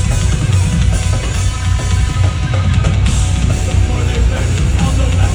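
Heavy metal band playing live: distorted guitars and a drum kit with heavy bass drum, loud and dense without a break.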